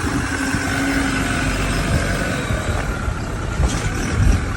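Toyota Hilux 4x4 engine running steadily, a low rumble under a dense wash of noise.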